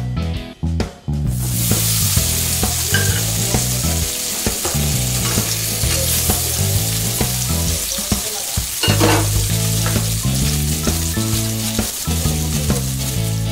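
Paneer cubes dropped into hot oil start sizzling loudly about a second in, then keep frying in the pan as they are stirred with a spatula.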